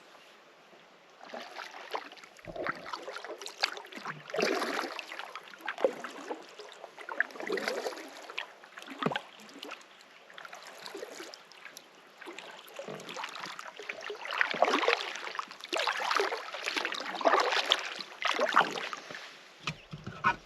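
Canoe paddle strokes in the water, a splashing stroke about every second and a half, starting about a second in.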